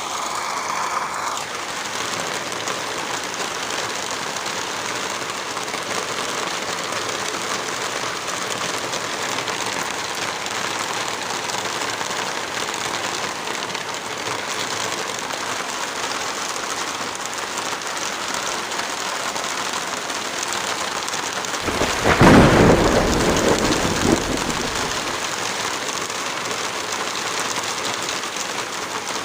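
Steady rain falling, with one loud, deep roll of thunder about two-thirds of the way through that fades over a few seconds.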